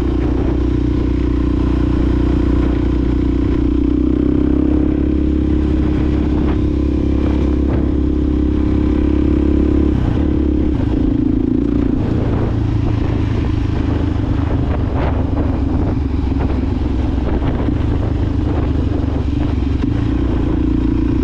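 Suzuki DRZ400SM single-cylinder four-stroke engine through a Yoshimura exhaust, running at steady cruising revs while being ridden. The engine pitch shifts about ten seconds in, then holds steady again.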